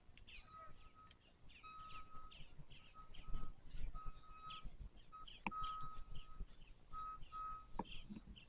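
Faint outdoor bird chirps, short calls repeated about twice a second, over a thin high steady tone that keeps starting and stopping.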